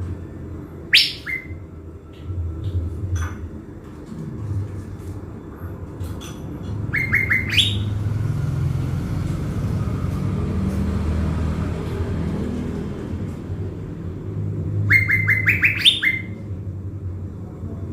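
Caged thanh lam decoy bird calling: one sharp upward note about a second in, then two bursts of quick repeated notes climbing in pitch, about seven seconds in and near the end. A low rumble runs underneath throughout.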